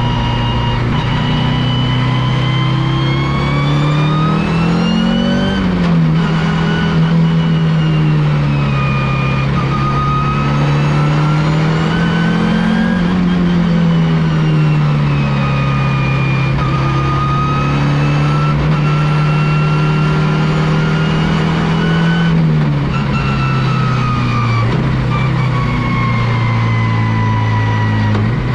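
Audi S2-R race car's turbocharged five-cylinder engine running hard on track. Its pitch climbs and then drops sharply about five and a half seconds in, as on an upshift, swells and eases again mid-way, and drops once more about twenty-two seconds in.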